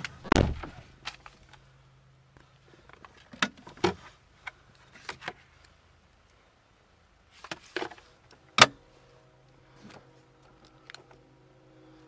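Clicks and knocks from handling a car's interior fittings, such as the seat and door, with a thump just after the start and a sharper, louder knock about two-thirds through, after which a faint steady hum sets in.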